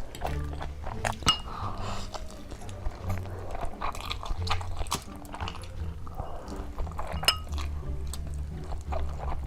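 Close-miked eating sounds: chewing and crunching with small clicks, and two sharp ringing clinks of a utensil against a dish, one about a second in and one later. Background music with a low bass line runs underneath.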